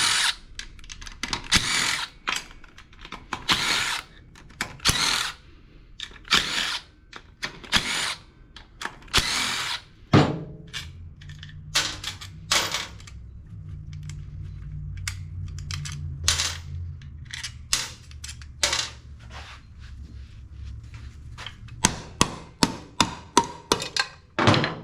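Cordless power tool running in short bursts, loosening fasteners while a lawn mower engine is taken apart, with a quick run of clicks near the end.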